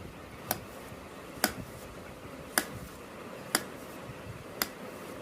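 Five sharp taps, about one a second, over a steady faint background hiss.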